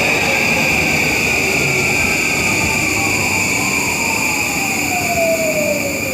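Electric commuter train running at the station platform: a steady high-pitched squeal over a rail rumble, with a motor whine falling in pitch through the second half.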